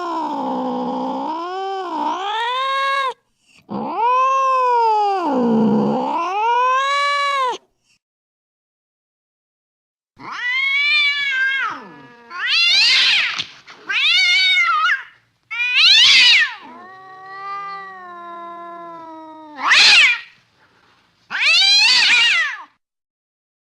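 Domestic cat yowling (caterwauling): two long, wavering yowls, then after a short silence a string of shorter, higher-pitched yowls and meows, with one quieter, lower drawn-out moan among them.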